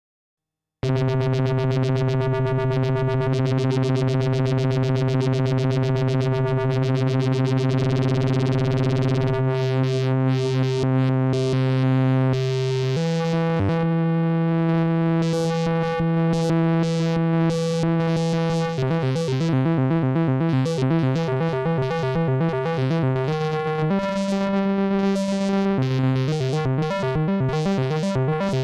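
Arturia MicroFreak synthesizer playing held bass notes on its Noise Engineering Bass oscillator. An LFO sweeps the wave folding, so the brightness of the tone keeps shifting. The sound starts about a second in and moves to a new note every few seconds.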